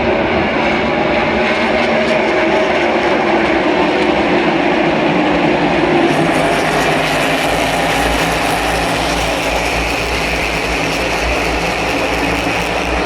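NASCAR Cup stock cars' V8 engines racing around the short track, a dense, steady, loud engine noise of the field that grows fuller about halfway through.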